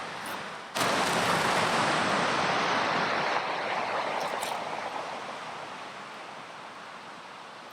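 Ocean surf: a wave rushes in suddenly about a second in, then washes out and fades away over several seconds.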